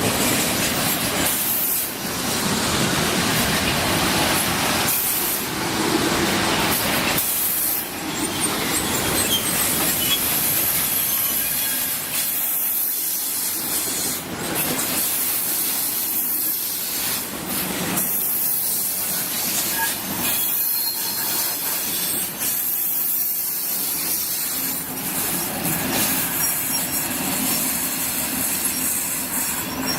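Train running through a station: a loud, steady rail rumble with a knock every second or two, and a faint high squeal from the wheels near the end.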